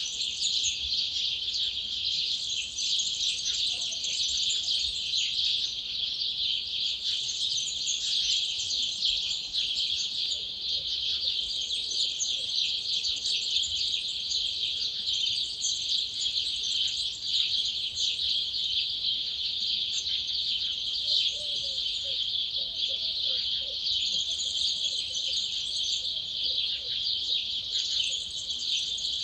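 Dawn chorus: many wild birds of several species singing at once, a dense and continuous twittering of overlapping high calls.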